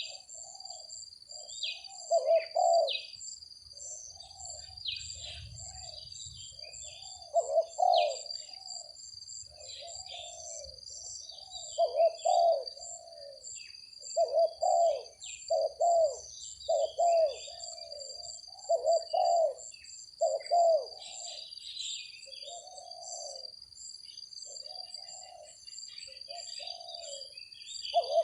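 Spotted doves cooing, phrase after phrase of low rolling coos, against steady high-pitched tones and short high chirps.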